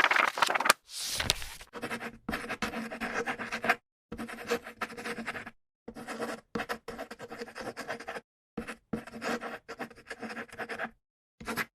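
Pilot Prera fountain pen's steel nib scratching across paper in short writing strokes with brief pauses between them. A few louder handling rustles come in the first second or so.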